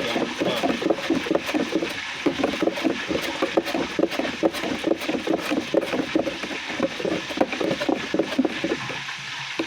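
A spoon stirring sugar water and blue raspberry Kool-Aid mix in a container, a quick steady run of strokes that eases off near the end, over hot frying oil sizzling in the background.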